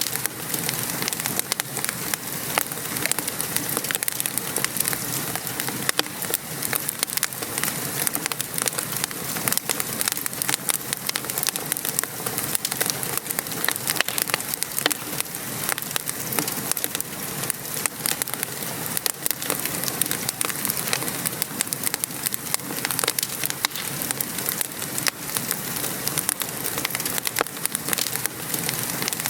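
Steady rain pattering, mixed with a wood fire crackling and popping in many small, irregular snaps.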